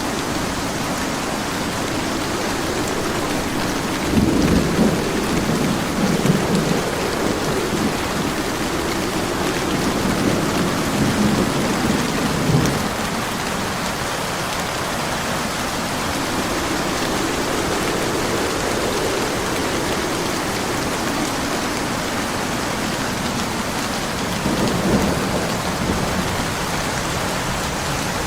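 Steady heavy rain with thunder rumbling low several times: a long roll about four seconds in, another around ten to twelve seconds, and a shorter one near the end.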